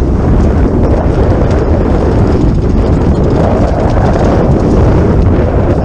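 Strong wind buffeting the microphone: a loud, steady rumbling noise with no let-up.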